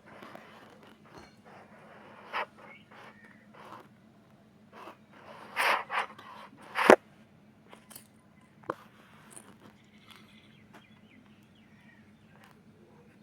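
Irregular short clicks, scrapes and knocks, with a cluster of scraping a little past halfway and one sharp knock just after it, over a faint steady hum.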